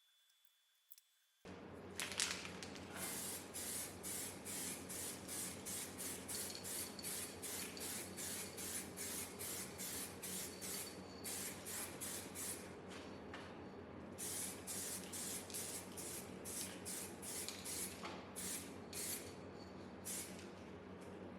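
Spray hissing in rapid short bursts, about two to three a second, with a couple of brief pauses.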